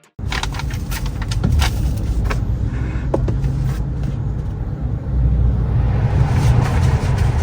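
A small electric car, the BYD Seagull, driving, with a steady low rumble of road and wind noise and a few light clicks. The rumble starts suddenly just after the start and gets a little louder about five seconds in.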